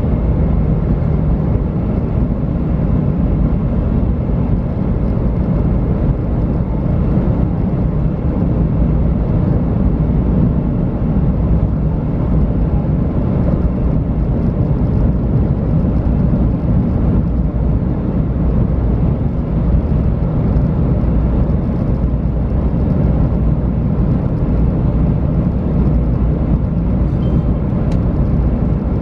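Steady running noise inside the passenger cabin of a JR West 500 series Shinkansen. It is a loud, even low rumble of wheels and track with a faint steady tone above it.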